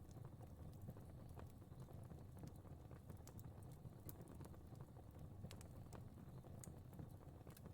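Fire crackling quietly: a steady low hiss of flame with frequent small, irregular pops and snaps.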